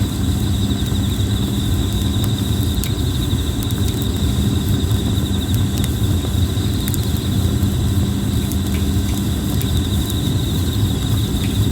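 Red plum wood fire burning over a steady low rumble, with a few sharp crackles and pops. Insects trill continuously in a high, fast-pulsing band.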